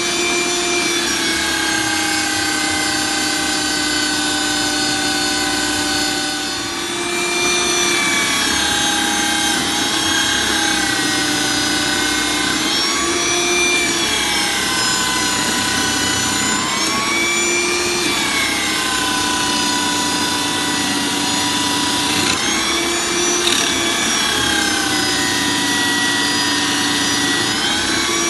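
Electric drill rigged as a coconut grater, running continuously. Its motor whine sags in pitch and picks back up every few seconds as it is loaded and unloaded, over a steady scraping sound of grating.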